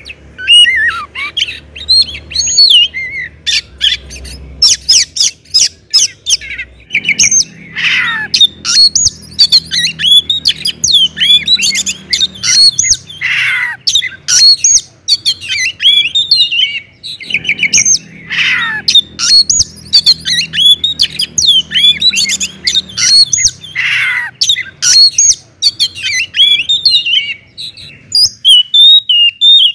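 Oriental magpie-robin (kacer) singing loudly and nonstop in the full, open 'ngeplong' style: a fast, varied stream of whistles, sweeping notes, harsh squawky calls and rapid clicking rattles.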